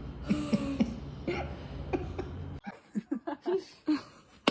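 A person chuckling and laughing in short bursts. About two and a half seconds in, the steady background hum cuts off and short voice sounds carry on.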